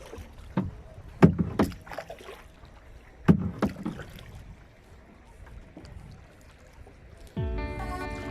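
Kayak being paddled: a few sharp knocks and splashes of paddle strokes in the first four seconds. Background music starts about seven seconds in.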